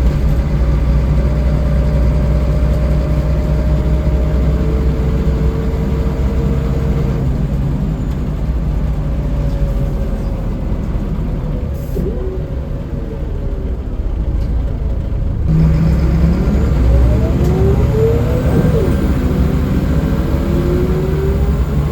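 Scania L94UB bus's diesel engine and drivetrain running on the road, heard from inside the bus. The engine eases off through the middle, then about two-thirds of the way in it pulls hard again, with rising whines as the bus accelerates.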